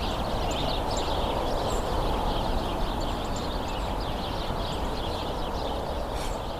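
A hidden flock of small birds giving many short, high chips and twitters, scattered throughout, over a steady background rumble and hiss.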